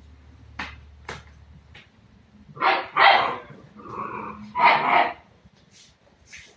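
Dogo Argentino puppy barking in play, four short loud barks in the middle of the stretch, after a couple of faint knocks early on.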